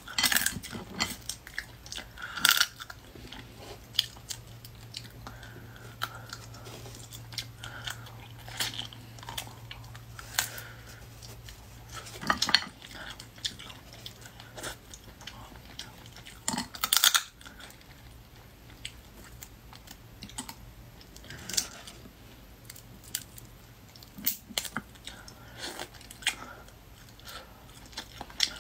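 Close-miked chewing and crunching while eating boiled hermit crab meat, with irregular sharp crunches and clicks, the loudest about twelve and seventeen seconds in.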